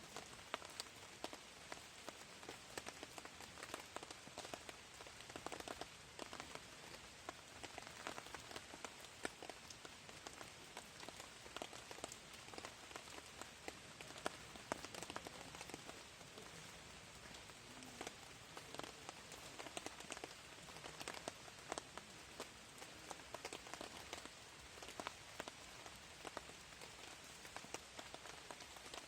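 Light rain falling steadily, with many small drops ticking irregularly on a surface.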